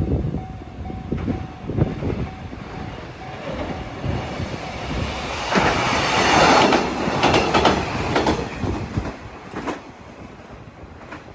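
A train passing close by, its wheels clattering over the rail joints in a string of knocks. It is loudest about halfway through, then fades away near the end.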